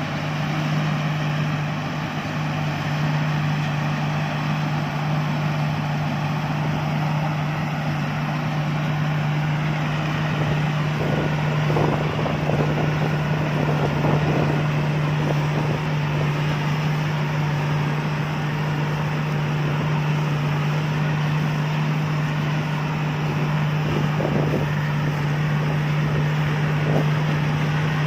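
Combine harvester's engine running steadily with a constant low drone, the machinery noise over it wavering briefly a couple of times.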